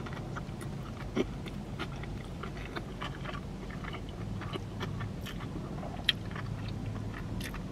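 A person biting into and chewing a soft animal-style In-N-Out sandwich with lettuce, close to the microphone: wet mouth clicks and smacks, with a couple of sharper clicks, over a low steady hum.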